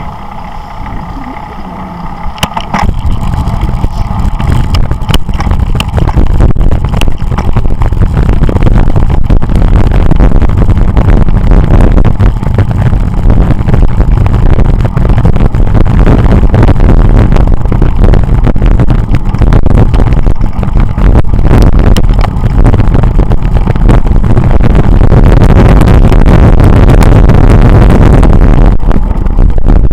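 Heavy wind rumble on a moving camera's microphone during a bicycle ride, building over the first few seconds and then staying loud and steady.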